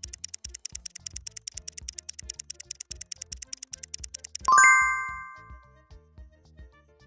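Quiz countdown timer sound effect: rapid, even ticking over a music track, cut off about four and a half seconds in by a loud, bright chime that rings out for about a second. The music carries on alone after it.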